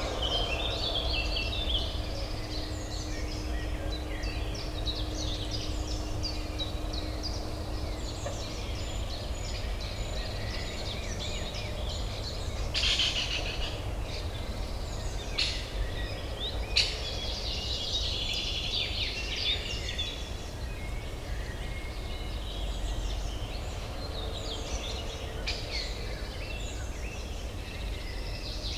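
Several songbirds chirping and trilling over a steady low urban hum, with a few short, louder calls about halfway through.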